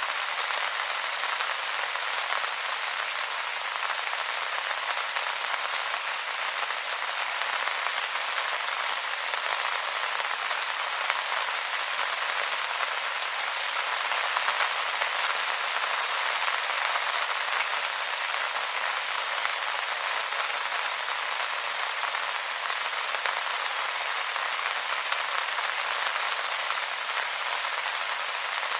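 Steady rain pattering on wet leaves, a dense even hiss of many small drops with no let-up.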